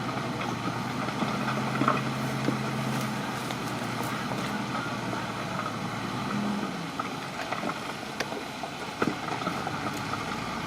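Crawler bulldozer's diesel engine running at a steady pitch, with a few sharp clicks and knocks. The steady hum drops away about two-thirds of the way through, leaving a rougher machine noise.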